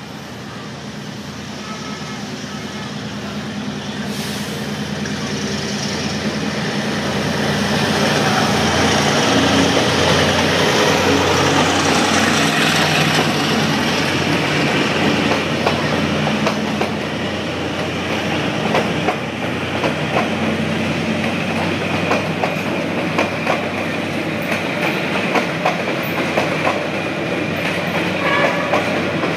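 D19E diesel-electric locomotive running as it approaches and passes, growing louder to a peak, then passenger coaches rolling past with a rhythmic clickety-clack of wheels over the rail joints.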